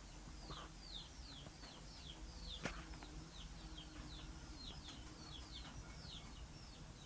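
Baby chicks peeping: a steady run of short, high, falling peeps, about three a second, with one sharp click about midway.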